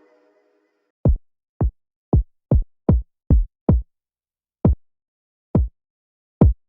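Electronic kick drum hits played alone, about ten short deep thumps each dropping quickly in pitch, in an uneven pattern with a longer gap in the middle. At the start the tail of the full beat fades out.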